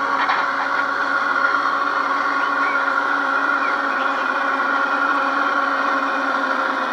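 Garden-scale model train running steadily, its electric motor and gearing giving an even whir with several steady tones. A few faint short chirps sound above it.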